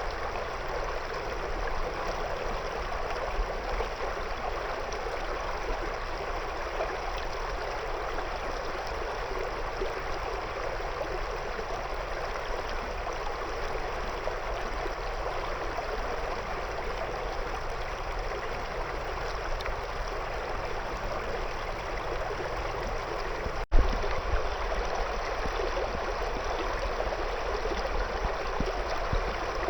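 River water flowing over stones: a steady, even rushing babble. About three quarters of the way through, the sound drops out for an instant and a sharp click follows.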